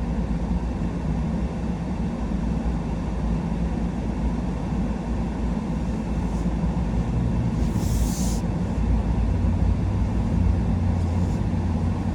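Truck driving along: a steady low engine and road rumble, with a brief hiss about eight seconds in.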